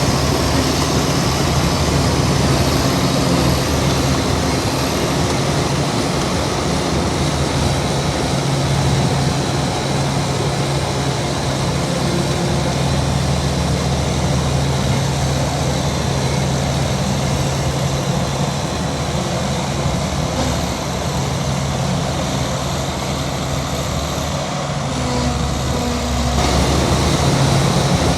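Heavy diesel engine of earthmoving machinery running steadily under load, a loud low hum. Near the end the engine note briefly changes, then runs a little louder.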